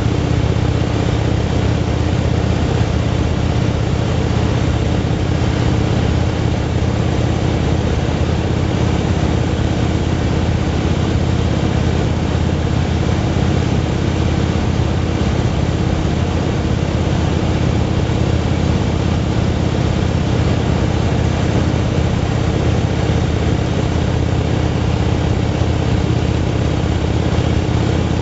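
Motorcycle engine running at a steady cruise: an even drone under a constant hiss, with no change in pitch.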